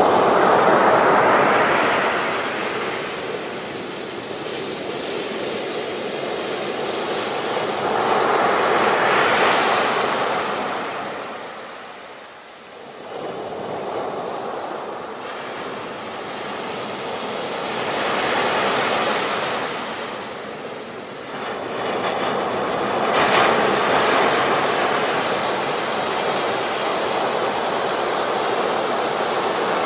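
Sea waves breaking on a beach: the surf swells and fades in slow surges every several seconds, with a brief lull about halfway through.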